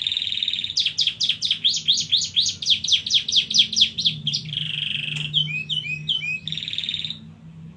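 Domestic canary singing a long rolled song: a sustained trill, then a fast run of falling notes, about five a second, then another buzzing roll, a few short notes and a last roll.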